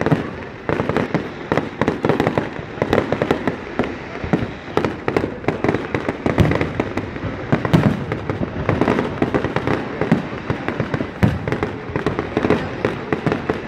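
Fireworks display: a rapid, continuous barrage of bangs and crackles, many overlapping shells bursting in quick succession.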